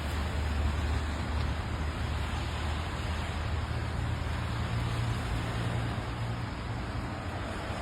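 Steady low rumble and road noise of a motor vehicle driving.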